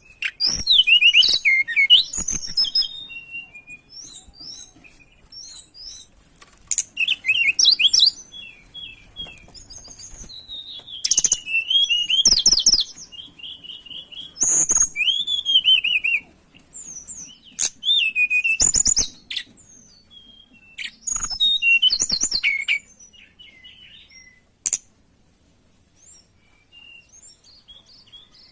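Tledekan gunung songbird singing: quick, high chirping and whistled phrases in bursts of one to two seconds, separated by short pauses, with only faint calls over the last few seconds.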